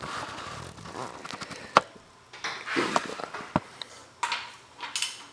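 Workshop handling noises: rustling and shuffling, with two sharp clicks a couple of seconds apart.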